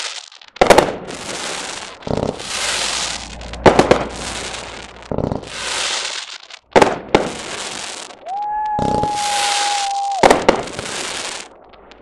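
Fireworks display: a series of sharp bangs, roughly one every second or two, each followed by a second or so of hissing crackle from the bursting shells. A steady whistle runs for about two seconds in the second half.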